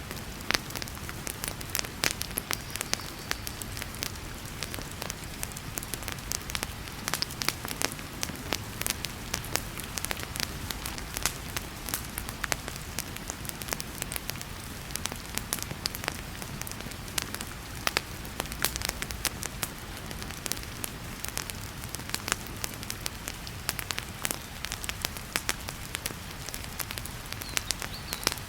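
Wood fire crackling and popping in a fireplace, with sharp irregular pops over a steady hiss of heavy rain.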